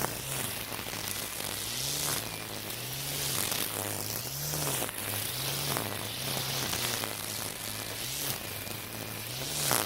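Battery-powered Makita 40V string trimmer with a split shaft, spinning nylon cutting line through thick weeds. A steady motor hum rises and falls in pitch about once a second, with a constant hissing from the line tearing through the grass.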